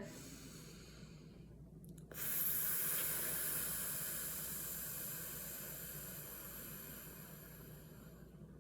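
A woman's long hissing exhale, breathed out through the teeth or lips as a breathing exercise. It starts suddenly about two seconds in and fades away over some six seconds.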